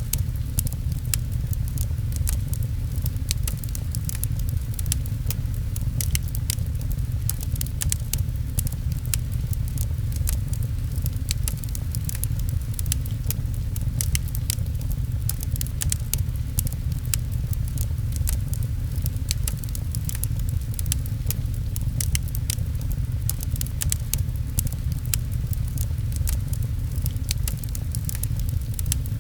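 Fireplace crackling, with many sharp pops close together, over a steady low rumble, mixed with gentle rain pattering on a window.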